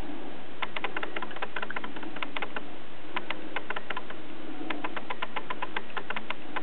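Runs of rapid sharp clicks or chirps, several bursts a second or so apart, over a low wavering sound.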